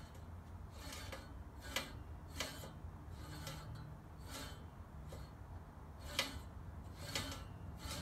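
Sharpened cutting reel of a Scott Bonnar Model 45 cylinder mower spun by hand, its blades lightly scraping and ticking against the bed knife at irregular intervals about a second apart. This is the sound of the reel set just touching the bed knife during adjustment.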